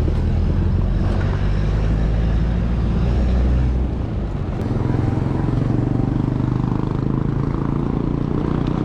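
Road traffic heard while riding a bicycle in city traffic, with a heavy low rumble of wind on the microphone for the first four seconds. After about four seconds the rumble eases and a nearby motor vehicle's engine hums steadily.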